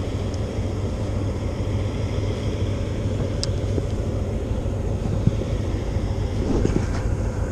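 Steady low drone of a loaded river oil tanker's engine as the vessel passes, labouring under its load.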